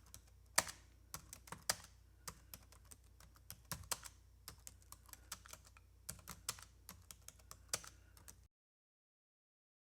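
Typing on a computer keyboard: irregular key clicks, several a second, which stop about 8.5 seconds in.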